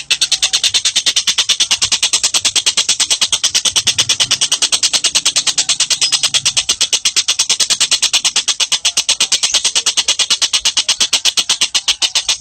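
A songbird calling in a long, fast, even trill of high, sharp notes, about eight or nine a second, without a break.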